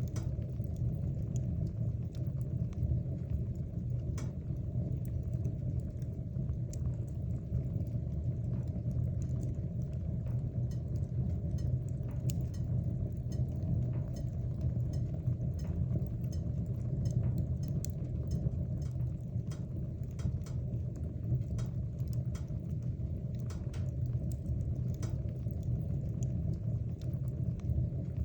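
Wood fire burning in a fireplace: a steady low rumble with small crackles and pops scattered irregularly throughout.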